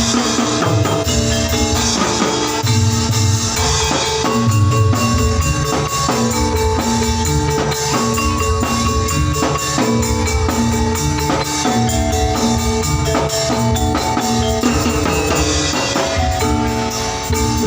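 Oklik music: a Javanese bamboo kentongan percussion ensemble with drums and repeated tuned mallet-like notes, playing a steady, driving rhythm over a sound system.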